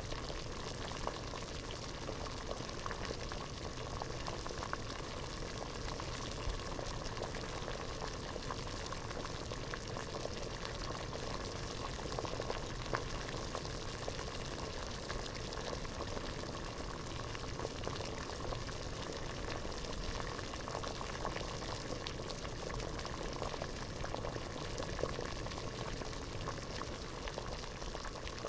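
Water boiling hard in a pot: steady dense bubbling with many small pops.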